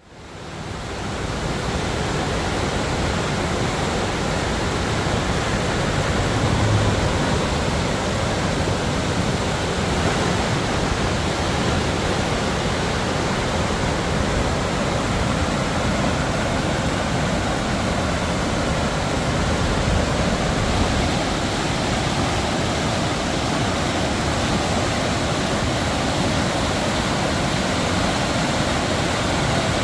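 River swollen with spring meltwater rushing through rapids: a steady wash of whitewater that fades in over the first second.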